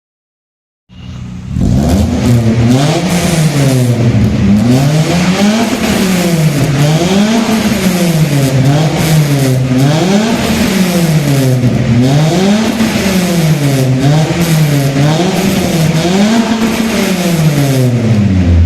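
Maruti Esteem engine breathing through aftermarket performance headers and a custom muffler, revved up and let fall back over and over, about one rev every two seconds. The exhaust note starts abruptly about a second in.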